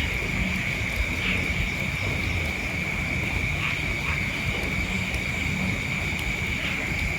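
Steady high-pitched drone of night insects that does not break, with faint short calls every couple of seconds over a low rumble.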